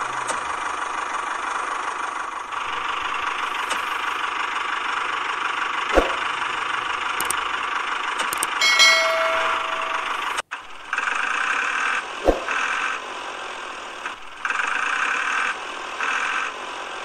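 A small motor running steadily, with a sharp click about six seconds in. After a break about ten seconds in, it stops and starts again in several short stretches, with another click between them.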